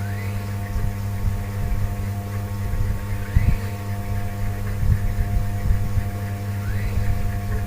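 A steady low hum with a few steady higher tones over it. A faint short rising chirp comes about every three seconds, with scattered low thumps.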